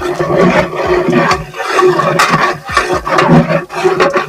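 Loud roar of a large cooking burner under a big kadai of frying onions, swelling and dipping about once a second.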